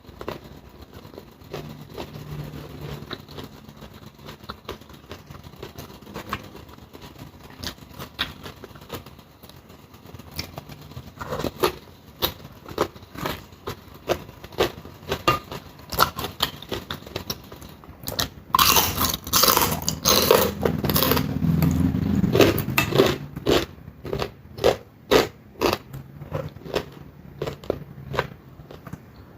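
Close-up chewing and crunching of crisp fried dried fish, a steady run of small crunches with a louder, denser spell of crunching about two-thirds of the way through.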